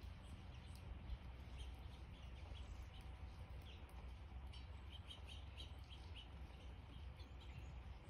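Small birds chirping faintly: scattered short, high chirps, with a quick run of them about halfway through, over a low steady background rumble.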